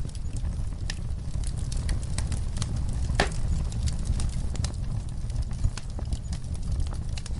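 Wood fire in a fireplace crackling, with a steady low rumble of the flames and irregular sharp pops, one louder pop about three seconds in.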